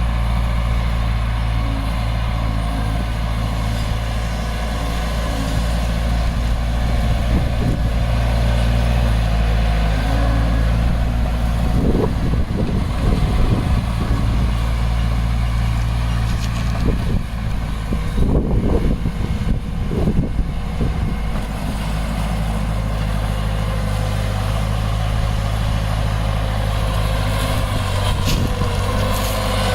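Heavy diesel construction machinery running steadily with a deep engine drone. Twice, about twelve seconds in and again about eighteen seconds in, a few seconds of irregular clattering and scraping rise over the engine.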